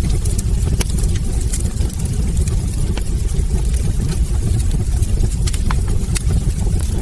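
Wood fire of burning logs in a fireplace: a steady low rumble of flames with frequent sharp crackles and pops from the wood.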